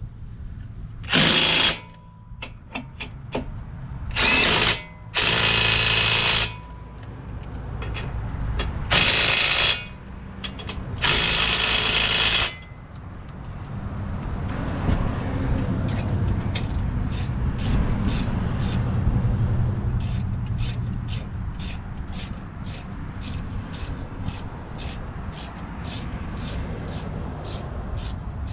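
Power tool driving strut bolts in five short bursts over the first dozen seconds. After that comes a lower steady rumble and, later, a run of quick, evenly spaced clicks.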